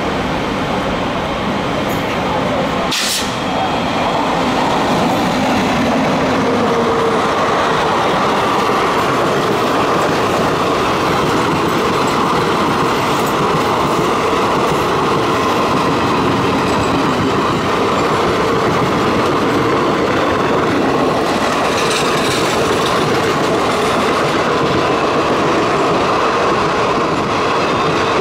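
Two trains running side by side at speed, heard from the open doorway of a Mumbai suburban EMU: a steady loud rumble of steel wheels on rails with rushing air. A single sharp clack comes about three seconds in.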